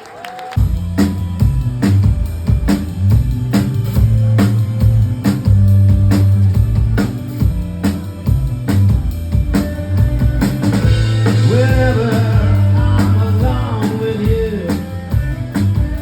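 Live rock band playing an instrumental passage: drum kit, bass and guitar come in together about half a second in and play a steady beat. A vocal line begins faintly about two-thirds of the way through.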